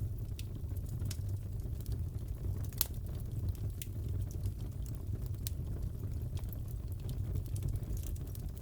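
Wood fire burning in a fireplace: a steady low rumble of flames with scattered crackles and pops, the sharpest about three seconds in.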